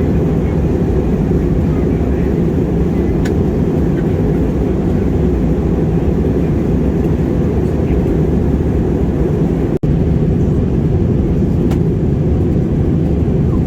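Steady in-flight noise of a jet airliner heard from inside the passenger cabin, a deep, even rush of engine and airflow noise, with a split-second dropout about ten seconds in.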